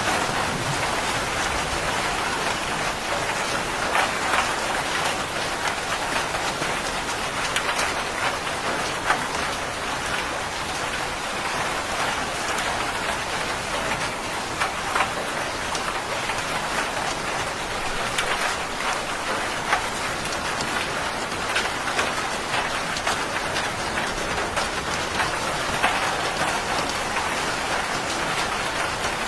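Steady rain falling, with the sharp patter of individual drops striking a surface.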